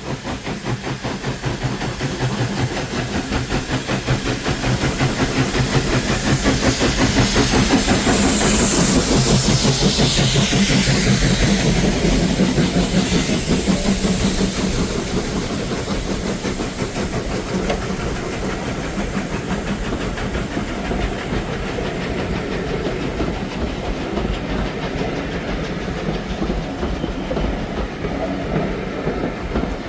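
Steam-hauled train passing: the sound builds to a peak with a hiss falling in pitch about ten seconds in, then settles into the steady clickety-clack of the coaches' wheels over the rail joints.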